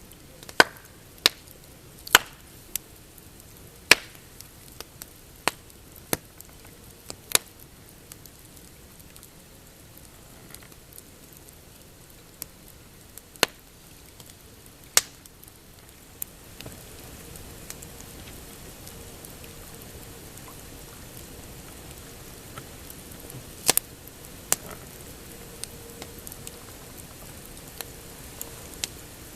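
Pine campfire crackling, with sharp wood pops that come often in the first half and only now and then later. About halfway through, a steady hiss rises under the pops.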